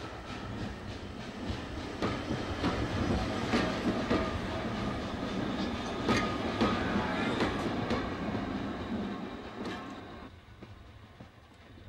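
Train of vintage passenger carriages rolling past close by, the wheels clicking over the rail joints; the sound falls away about ten seconds in as the last coach passes.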